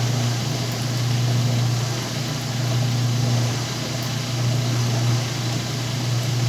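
Whirlpool washing machine running mid-cycle: a steady low motor hum with a wash of mechanical noise over it, swelling and easing slightly every second or two.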